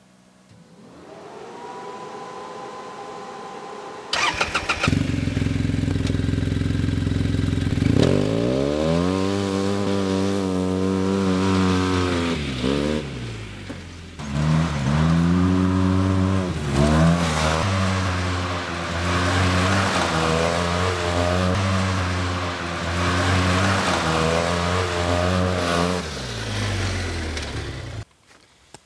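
Arctic Cat Wildcat Trail UTV engine cranked and starting about four seconds in, idling briefly, then revved hard again and again, the pitch climbing and falling with each rev. A rising electric whine comes before the start.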